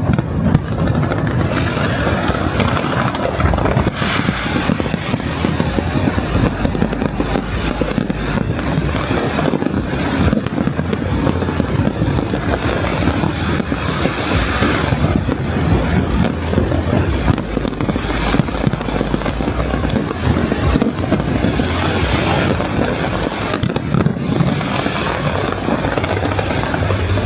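Large fireworks display going off continuously, a dense run of bangs and crackles over a low rumble with no pauses.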